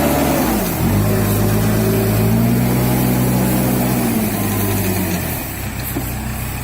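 A vehicle engine running hard and steady as it pulls a truck stuck in mud. It dips briefly just under a second in, then holds its pitch until it eases off about five seconds in.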